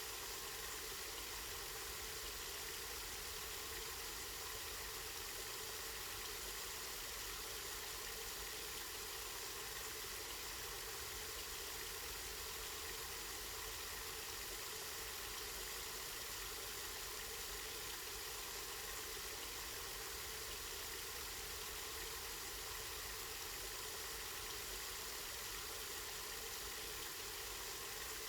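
Water from a spring running and splashing steadily, an unbroken even rush.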